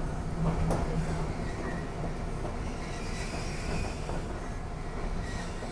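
Keifuku Electric Railroad (Randen) railcar running steadily on its approach into Arashiyama terminus, with a faint high wheel squeal about halfway through.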